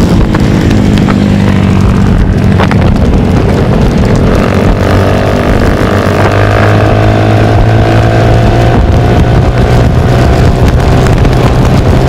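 Hay baler running behind its tractor: a loud, steady engine sound that rises slightly in pitch about halfway through, with a couple of sharp knocks in the first few seconds.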